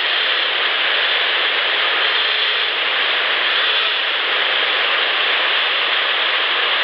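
Steady hiss of distant highway traffic in an amplified outdoor field recording, with no distinct whistle or other event standing out.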